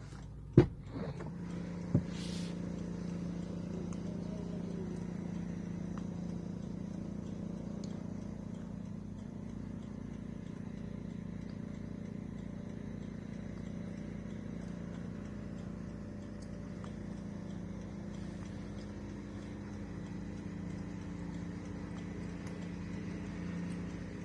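A Rolls-Royce car's engine running at a steady idle, a low even hum. Two sharp clicks come in the first two seconds.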